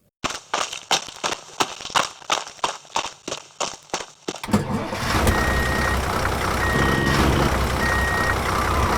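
Irregular sharp clicks and knocks, then about halfway through a motor starts running steadily with a repeating reversing-alarm beep, roughly one beep a second.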